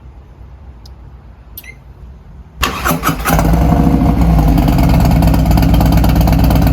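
2023 Harley-Davidson CVO 121's Milwaukee-Eight V-twin, fitted with a D&D Billet Cat 2-into-1 exhaust, being started: about two and a half seconds in it fires up suddenly, runs unevenly for a moment, then settles into a loud, steady idle.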